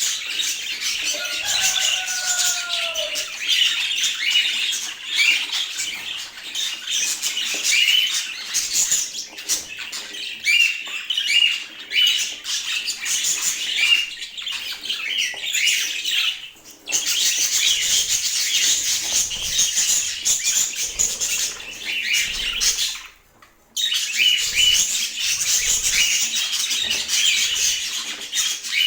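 Budgerigars chattering: a dense, continuous run of short high chirps and warbles, broken by two brief pauses.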